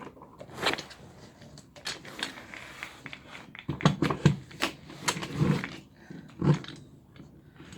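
Knocks, clunks and scrapes of chair parts being handled and fitted together during assembly. There is a run of heavier thumps from about four to six and a half seconds in.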